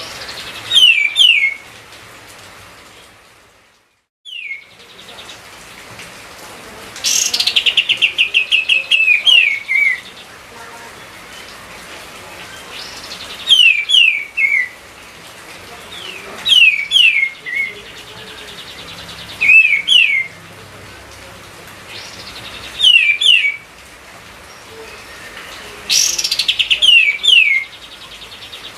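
Kapas tembak bulbul singing loudly in full song: short phrases of quick down-slurred whistles, repeated every few seconds, some opening with a harsh rattling buzz. A brief moment of silence cuts in about four seconds in.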